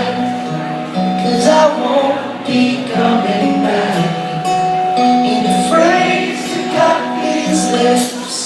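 Live rock band playing an instrumental passage of sustained chords and cymbal strokes at concert volume, with faint singing mixed in.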